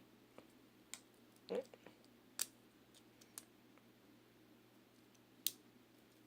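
Small plastic Beyblade Burst parts being handled and fitted together: a handful of separate, faint, sharp clicks spread over several seconds, the loudest about five and a half seconds in.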